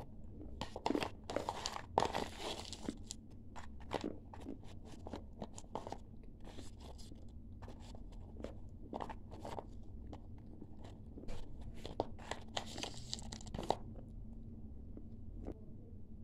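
Close-up crunching of dry clay being chewed: a run of sharp crunches throughout, with denser, louder bouts about two seconds in and again about three-quarters of the way through.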